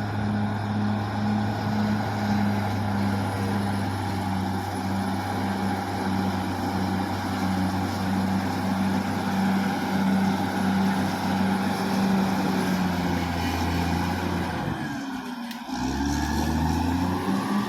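Caterpillar D6R XL bulldozer's diesel engine running at a steady pitch. Near the end it dips out for a moment and comes back with its pitch shifting.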